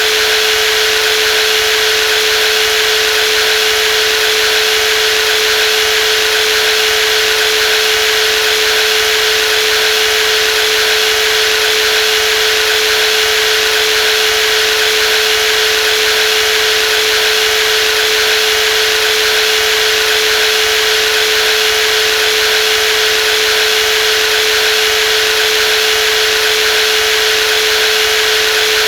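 Brushless jigsaw running continuously at a constant speed: an even mechanical whir with one steady pitched whine over it.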